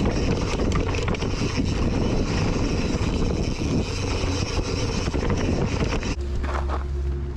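Mountain bike ridden fast down a dirt trail, heard from a GoPro on the bike or rider: tyre roar, rattling and clatter over the ground, and wind on the microphone. About six seconds in the clatter stops abruptly and a steadier low hum is left.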